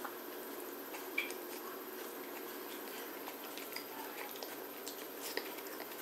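A person chewing and eating with the mouth close to the microphone, with short sharp clicks of a fork and fingers on a plastic plate, the strongest about a second in and again near the end, over a steady low hum.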